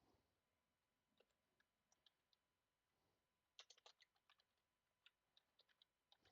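Faint computer keyboard typing: scattered key clicks, with a quick run of keystrokes about three and a half seconds in and more near the end.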